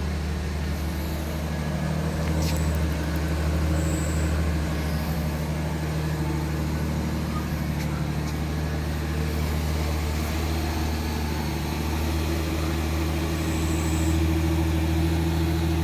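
Pontiac Fiero engine idling steadily after a cold start.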